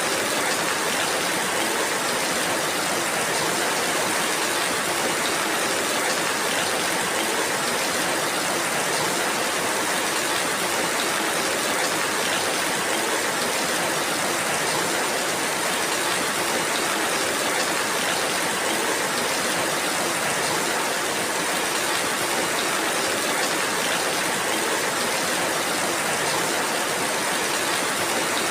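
Steady rainfall, an even hiss of falling rain with no distinct drops or thunder.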